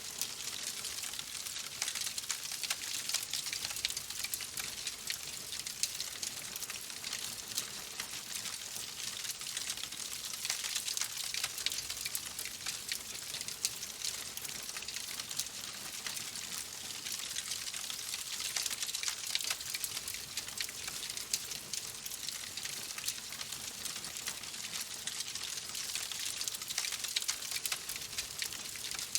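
Wood fire in a fireplace crackling steadily, with a dense scatter of small pops and snaps over a soft hiss.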